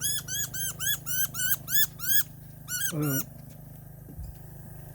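Injured young varied thrush giving squeaky distress calls: a rapid run of about nine arched squeaks, around four a second, then a short burst of squeaks about three seconds in. The calls sound like a squeaker toy.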